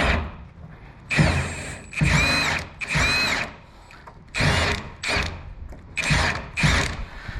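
Handheld power tool run in about seven short trigger bursts of roughly half a second each, its motor whining up and then down in pitch every time.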